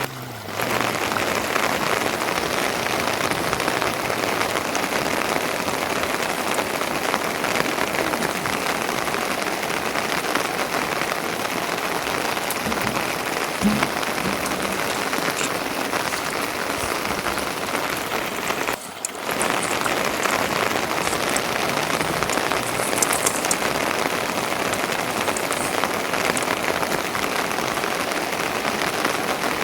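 Steady rain falling. The sound drops out briefly right at the start and again about two-thirds of the way through.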